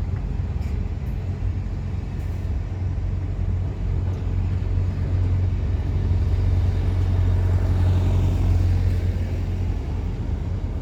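Freight train wagons rolling slowly past: a steady low rumble of steel wheels on the rails, swelling slightly about three-quarters of the way through, with a few faint clicks.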